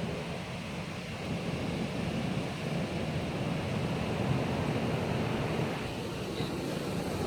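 Strong wind blowing in gusts and buffeting the microphone, a steady low rushing that swells and eases.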